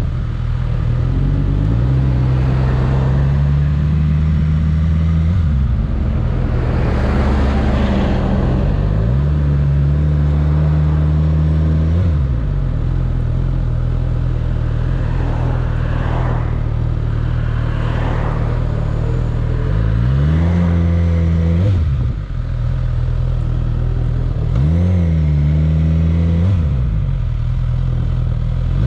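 Suzuki GSX-S1000's inline-four engine running at low revs in slow traffic, its pitch rising and falling several times as the bike pulls away, shifts and eases off.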